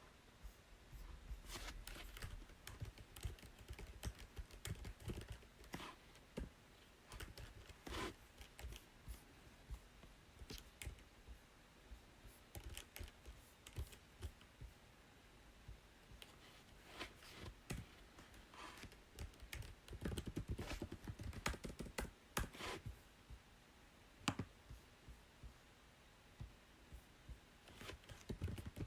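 Computer keyboard being typed on: irregular runs of key clicks with brief pauses, busiest near the start and again about two-thirds of the way in.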